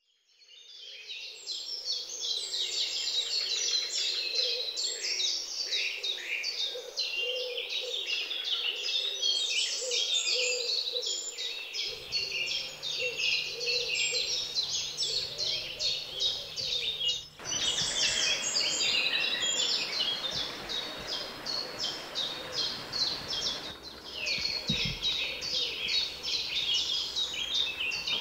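Woodland birdsong: many small birds chirping and singing densely and continuously, with a lower call repeating underneath for the first part. It fades in at the start.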